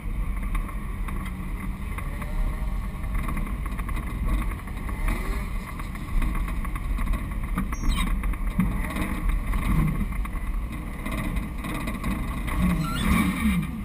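Car engine running low and steady as the car rolls slowly, heard through a hood-mounted camera, with wind rumbling on the microphone.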